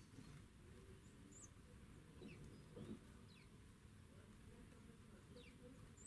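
Near silence with a few faint, thin, high bird chirps, each a short falling note, scattered through it, and one soft low thud about three seconds in.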